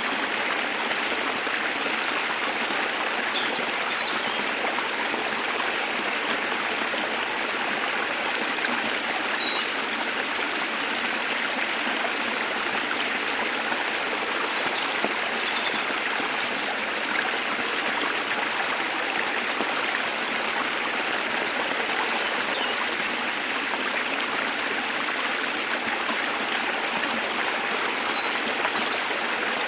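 Waterfall's steady rush of water, with a few faint bird chirps scattered over it.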